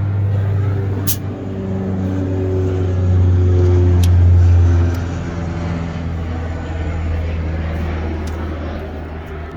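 GAZelle UMZ-4216 injector four-cylinder petrol engine running steadily. It gets louder about three seconds in and drops back about two seconds later.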